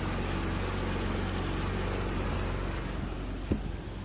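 An engine running steadily: a low, even hum under a rushing noise, with a single short click about three and a half seconds in.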